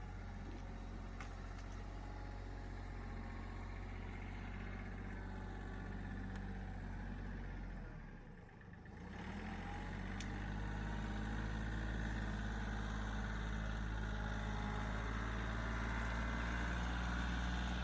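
Kioti tractor's diesel engine running steadily. About halfway through it dips away for a moment, then comes back a little louder.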